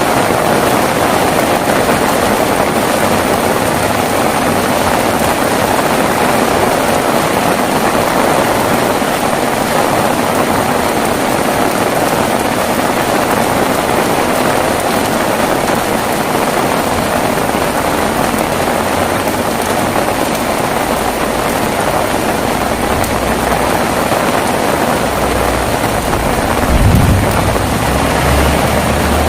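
Heavy rain falling steadily, with a brief low rumble of thunder near the end.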